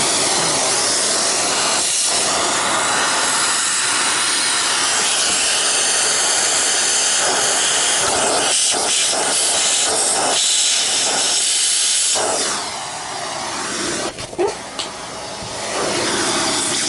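A vacuum cleaner running with a loud, steady rush of air, its nozzle held to a clogged air passage to suck it clear. The rush drops about twelve seconds in, with a couple of short knocks, and rises again near the end.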